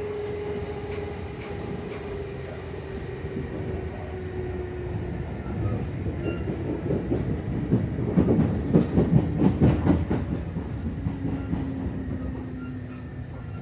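Running noise inside a Kintetsu 2800 series motor car with Mitsubishi MB-3110A traction motors, slowing on arrival: a motor and gear whine falling in pitch over the first few seconds, then a loud run of wheel clacks over rail joints and points from about six to ten seconds in, then a lower steady hum. This car is a low-tone unit, and its gear coupling makes an unusual noise.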